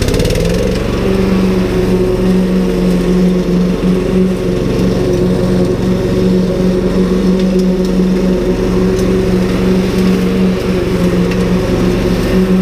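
Ryobi 190cc lawn mower's Subaru four-stroke petrol engine catching right at the start, already primed, then running steadily at a constant speed.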